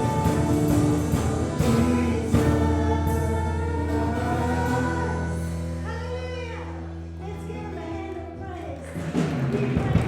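Live gospel worship music: voices singing over a held bass chord, slowly fading as the song winds down, with louder playing returning near the end.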